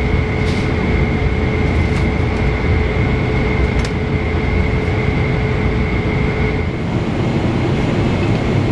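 Boeing 777-300ER cabin noise in flight: a steady low rumble of airflow and engines. Two faint steady tones run through it and stop about two-thirds of the way through.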